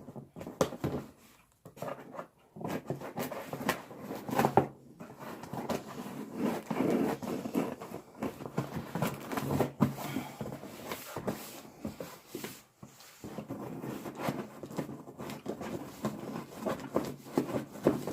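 Cardboard shipping box being cut open and its packing material handled: irregular scraping, rustling and clicking of cardboard and packaging.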